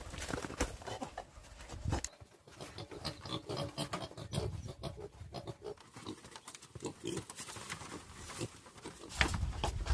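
Pigs grunting, mixed with rustling and scattered knocks and clicks.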